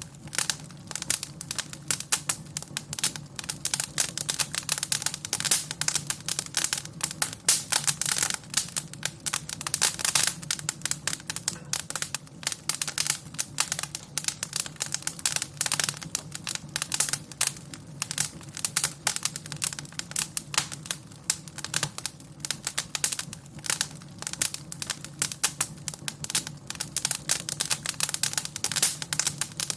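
Wood fire in a fireplace crackling and popping in a dense, irregular stream of snaps, over a steady low rumble of the burning fire.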